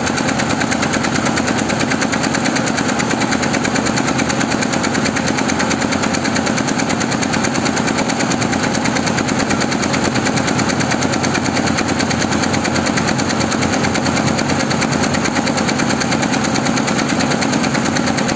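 Embroidery machine stitching at speed: a loud, steady, very rapid and even clatter of the needle going up and down.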